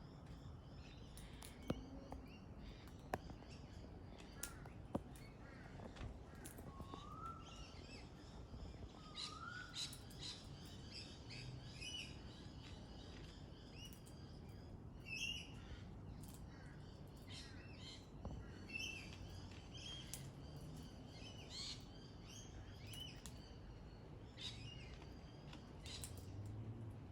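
Pale-headed rosella calling: a few short rising whistles and many chirping calls, with a few sharp ticks in the first five seconds.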